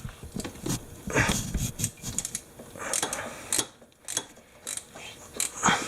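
Metal hand tool clinking and rattling as a wrench is handled and tried on a 17 mm nut, a series of short irregular clicks with rustling in between.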